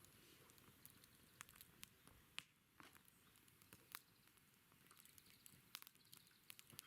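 Wood campfire crackling softly, with irregular small pops and snaps over a faint hiss.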